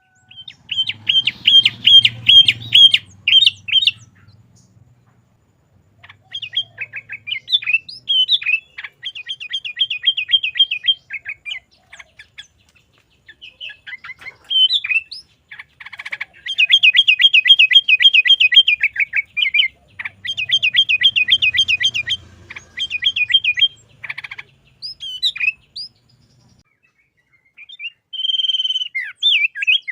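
Sooty-headed bulbul (kutilang) singing in phrases of rapid repeated chirping notes, several a second, broken by short pauses.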